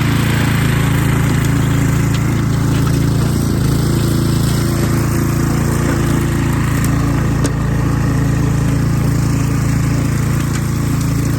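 Gas-engine garden tiller running steadily.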